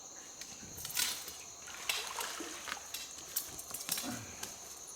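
Crickets chirping in a steady high drone, with scattered short rustles and knocks of handling, the loudest about a second in.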